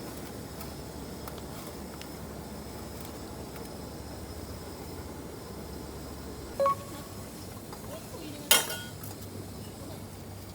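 Metal camp cookware clinking twice as it is handled, the second clink louder and ringing briefly, over a steady low hiss.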